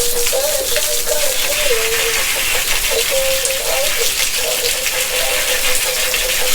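Water rushing steadily, with a rattling clatter and a wavering mid-pitched tone that steps up and down in pitch.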